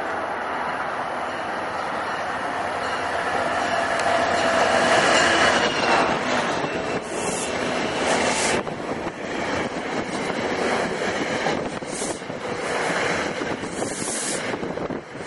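Commuter train rolling past on the rails, with wheel squeal and steady rolling noise that swells about a third of the way in, then several short bursts of high hiss in the second half.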